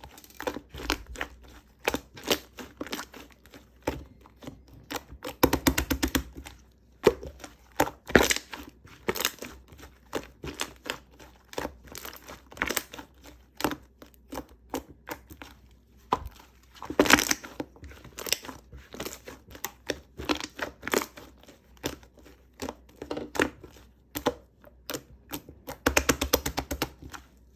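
Crinkly material being rustled and handled by hand: irregular scratches and taps, with several louder rustling bursts.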